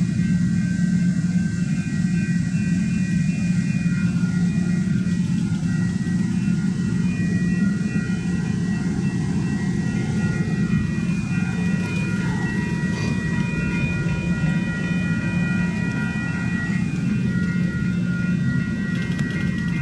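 Passenger cars of the Ringling Bros. circus train rolling slowly along the track during a switching move: a steady low rumble with several thin, steady high-pitched tones over it.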